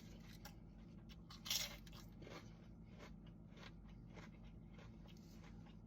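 A person chewing and biting into crunchy food, a string of faint crunches with one louder crunch about a second and a half in.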